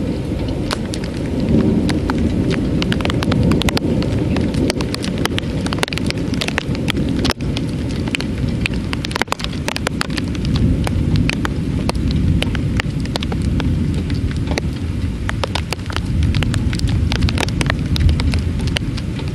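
Heavy rain in a thunderstorm: a dense, steady rush with a deep rumble underneath. Many sharp drop impacts land close to the microphone.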